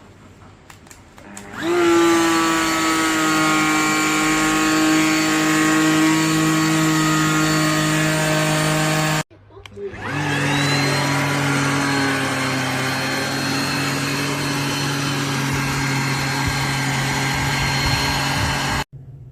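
JIMMY BX7 Pro handheld dust-mite vacuum cleaner motor spinning up and running steadily with a high whine, twice. Each run cuts off abruptly, the second at a slightly lower pitch.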